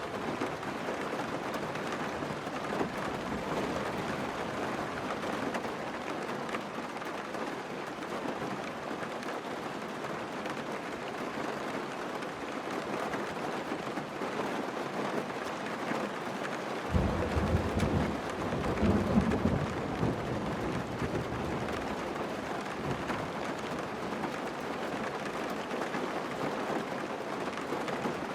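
Steady rain, with a low roll of thunder about seventeen seconds in that lasts around three seconds.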